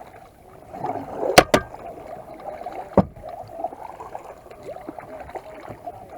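Water splashing and lapping around a kayak, with two sharp clicks close together about a second and a half in and a single knock about three seconds in.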